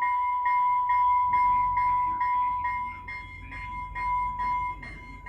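FrontRunner commuter train's bell ringing about twice a second over a steady ringing tone, while a low rumble builds from about a second and a half in as the train starts pulling away.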